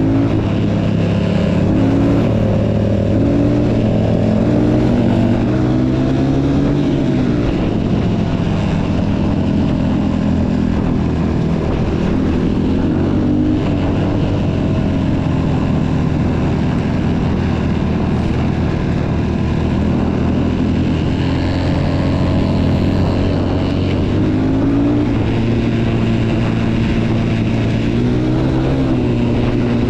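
Motocross bike engines running, their pitch rising and falling as they rev.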